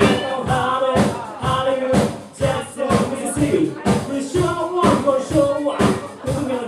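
Live band playing an up-tempo funk-style song, with drum kit hits on a steady beat about twice a second under pitched melody lines.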